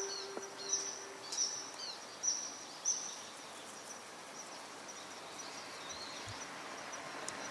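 Small birds chirping, several short high calls in the first few seconds and fainter ones later, over steady outdoor background noise. The last note of a loudspeaker chime dies away in the first second.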